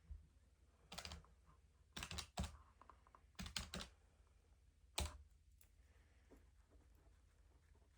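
Keys tapped in four short, faint bursts of clicks, then a pause with only a faint background hum.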